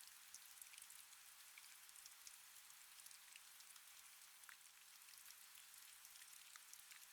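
Faint steady rain, an even hiss sprinkled with many small, sharp drop ticks.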